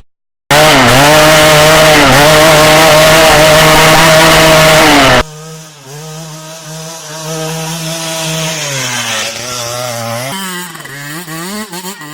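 Small petrol engine running hard at high revs, its pitch dipping briefly a couple of times. About five seconds in it cuts abruptly to a quieter stretch of the same kind of running, with a few more dips in pitch near the end.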